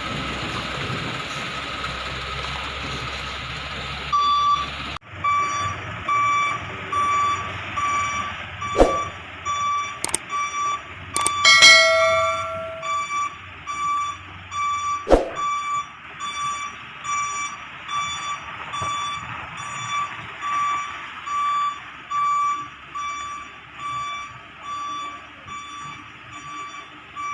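Truck reversing alarm beeping steadily about once a second, with a few sharp clicks and knocks. It is preceded by a steady rushing noise that cuts off abruptly about five seconds in.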